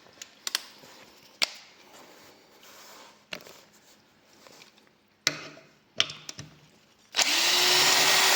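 A few sharp clicks and knocks, then about seven seconds in a Parkside PABS 20 Li G8 cordless drill's motor starts, rising briefly in pitch before running steadily.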